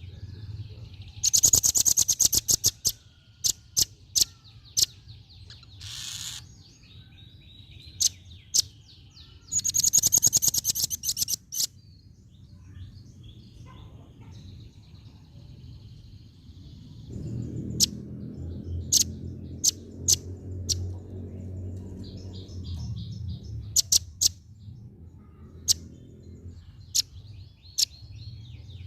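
Female velvet-fronted nuthatch calling: two fast, loud chattering trills of high notes, with single sharp chirps scattered between them. A low hum sits in the background in the middle stretch.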